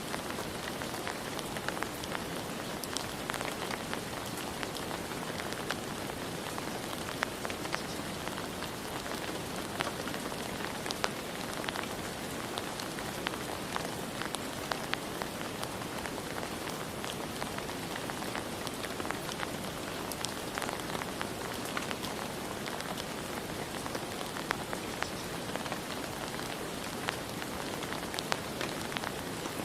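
Steady rain falling, with many individual drops pattering on a hard surface.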